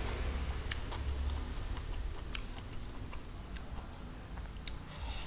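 Close-miked chewing: scattered sharp mouth clicks and smacks at irregular intervals over a low steady hum, with a short hiss near the end.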